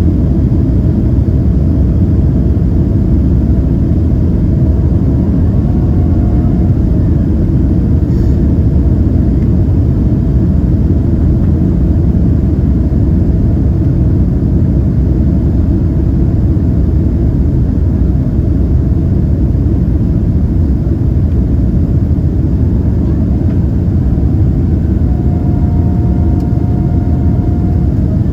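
Steady engine and airflow rumble inside the cabin of a Boeing 767-300ER in flight, with faint whining tones that come and go over it.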